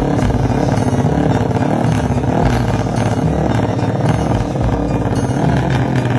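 Motorcycle engine running through an aftermarket DOS exhaust, its pitch rising and falling.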